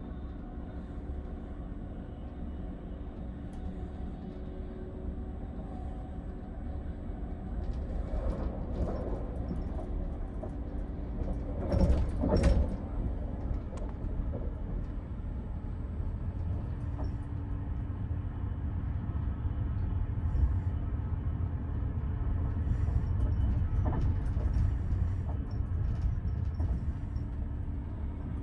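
Passenger train running at speed, heard from inside a British Rail Mark 5 sleeper coach: a steady low rumble of wheels on rail with a faint hum. A few brief louder clatters come through, the loudest about twelve seconds in.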